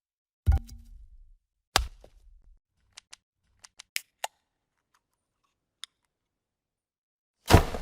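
A run of short video-transition sound effects: a sharp hit with a low thud about half a second in and another just before two seconds, a scatter of small clicks between three and four and a half seconds, and a louder, longer noisy hit near the end.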